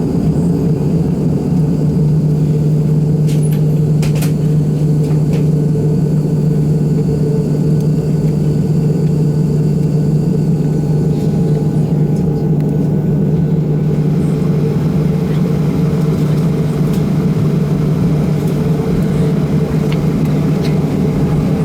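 Steady low drone of machinery heard inside a Boeing 737-700 cabin on the ground. A faint higher steady tone joins about halfway through.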